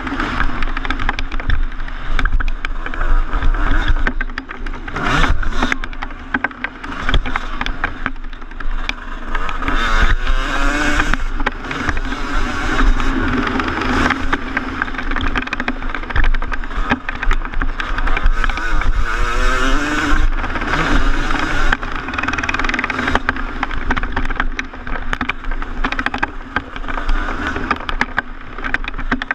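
2014 Yamaha YZ250's single-cylinder two-stroke engine under hard riding, revving up and dropping back again and again as it is ridden round a motocross track, with scattered knocks and clatter from the bike.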